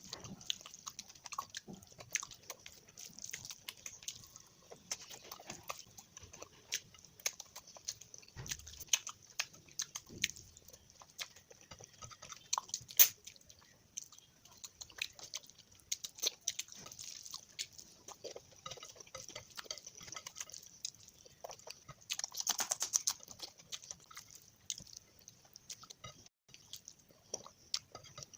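Close-miked chewing and mouth sounds of a person eating spicy fish curry: a steady run of small sharp clicks and smacks, busier for a moment about three quarters of the way through.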